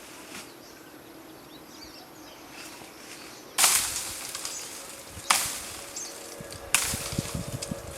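Three sudden loud, noisy crashes or rustles about a second and a half apart, each fading quickly, after a few seconds of quiet outdoor background with faint bird chirps.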